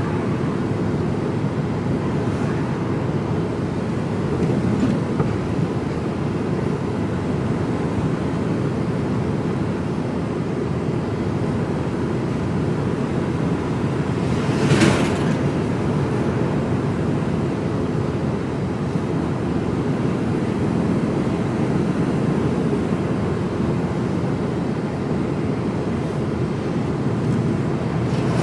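Mercedes Actros lorry driving, heard from inside the cab: a steady drone of engine and road noise, with one brief louder noise about halfway through.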